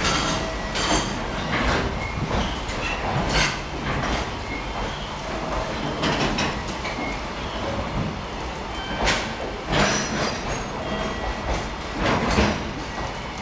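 Container wagons of a long freight train rolling past, wheels knocking irregularly over rail joints, with short high metallic squeals.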